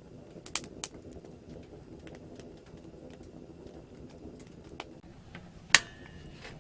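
A few sharp, isolated cracks or pops over a low, steady hum: two close together about half a second in, and the loudest about six seconds in.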